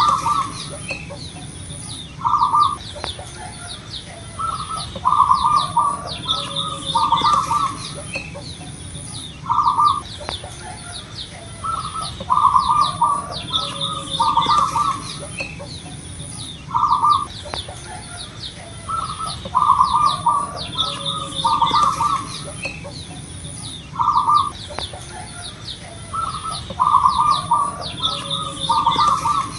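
Zebra dove (perkutut) cooing: short rolling bursts of coos, one to three at a time, repeated every couple of seconds in a pattern that recurs about every seven seconds. High chirps and a steady high-pitched tone run underneath.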